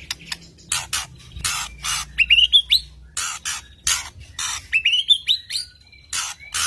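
White-rumped shama singing a fast, tight string of harsh, chattering notes, with a short run of rising whistles about two seconds in and again about five seconds in. This is the rapid-fire 'tembakan' song prized by Indonesian bird keepers.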